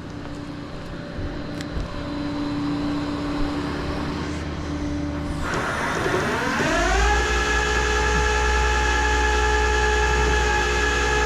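Tow truck's engine and hydraulic system running while the car is pulled up onto the bed: a steady whine, then about five and a half seconds in the engine speeds up with a rising pitch that levels off into a steady drone with a deep rumble.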